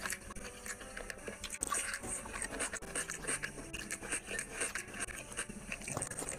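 Close-miked chewing of rice and curry eaten by hand: wet mouth clicks and smacks, many and irregular.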